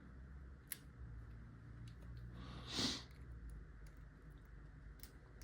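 Faint clicks of lock picking tools, a pick and tension wrench, working against the pins in a lock's keyway. A short hiss about three seconds in is the loudest moment.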